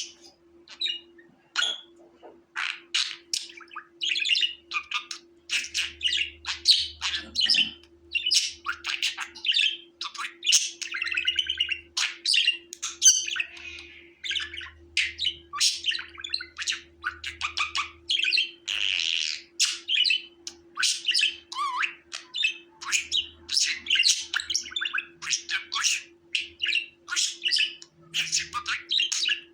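Budgerigar chattering and warbling: a rapid, continuous run of short chirps and squawky notes, with a faint steady hum underneath.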